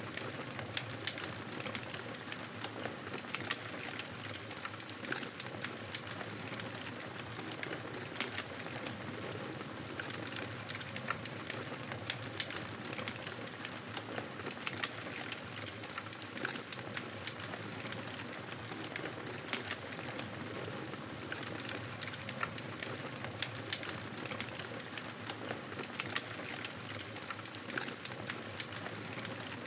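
Wood fire crackling, with frequent irregular small pops and snaps over a steady soft hiss.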